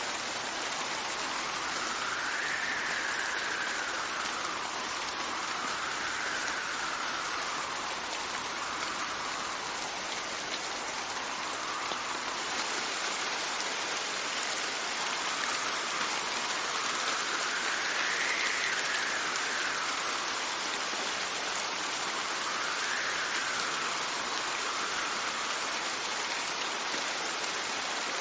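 Steady rain with wind. The wind whistles in a soft tone that rises and falls every few seconds.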